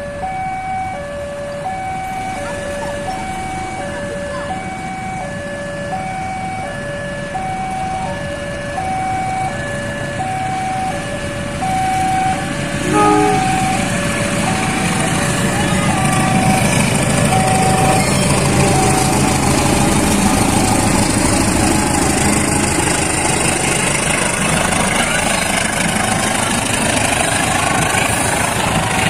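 A two-tone level-crossing warning signal alternates steadily, about one change a second. Near the middle a short horn blast sounds, and the rising rumble of a passing passenger train takes over and runs loudly to the end.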